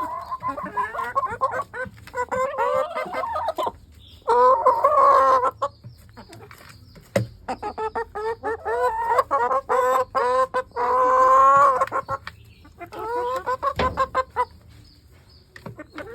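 A flock of laying hens clucking and calling over and over, with two longer, louder drawn-out calls, one about four seconds in and one near eleven seconds, and short sharp clicks scattered between.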